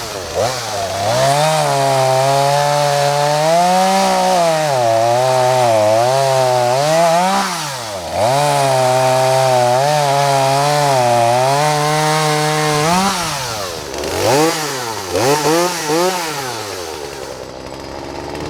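Poulan Wood Shark two-stroke chainsaw running at high revs, its engine note wavering up and down. Toward the end it is revved and let off several times in quick succession, then drops back toward idle.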